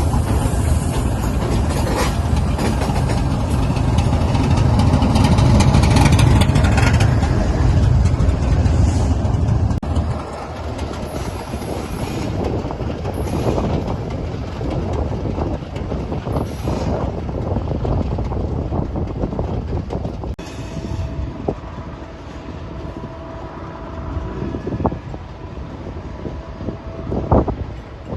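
Diesel freight train passing close by. The locomotive's heavy low engine drone fills the first ten seconds, then freight wagons roll past with their wheels clattering over the rails and a few short squeaks near the end.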